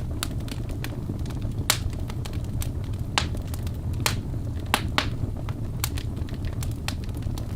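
Birch logs burning in a fireplace: irregular sharp crackles and pops over a steady low rumble of the flames.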